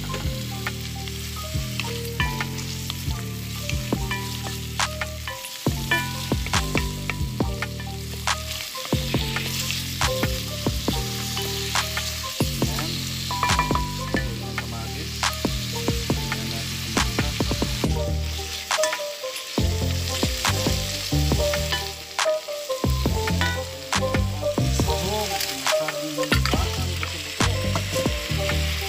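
Sliced onion, garlic and tomato sizzling in hot oil in a pot while being sautéed. A wooden spatula stirs them, with frequent scrapes and knocks against the pot.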